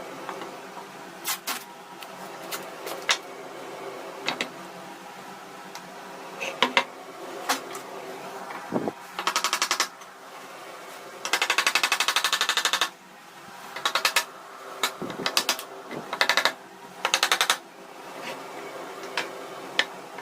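Restoration work on an old mechanical machine: scattered sharp clicks and knocks, with several short bursts of fast, even rattling, the longest about a second and a half long near the middle.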